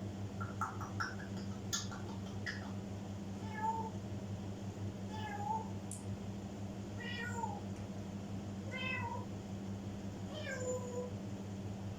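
African grey parrot imitating a cat's meow: about five short meows, one every couple of seconds, after a few sharp clicks, over a steady low hum.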